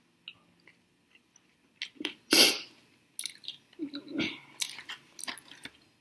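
Close-miked chewing and biting of sauced chicken wings: irregular wet mouth smacks and clicks, the loudest a little over two seconds in.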